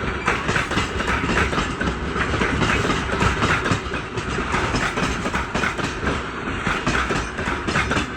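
Loaded freight wagons of a heavy train rolling slowly past, their wheels clattering steadily over the rail joints with many small knocks.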